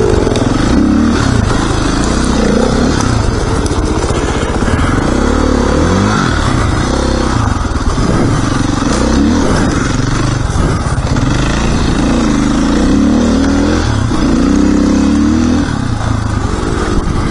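Dirt bike engine running under load, its pitch rising and falling over and over as the throttle is opened and closed.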